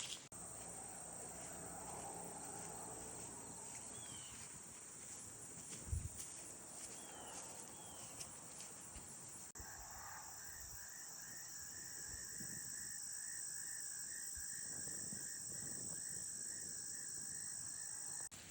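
Insects chirring steadily at a high pitch; about halfway through, a lower, pulsing trill joins in. A few faint short chirps sound in the first half, and there is one soft thump near the middle.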